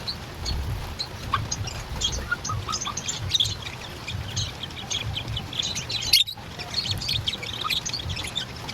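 Lovebirds chattering: a steady stream of many short, high chirps and squeaks. There is a single sharp click about six seconds in.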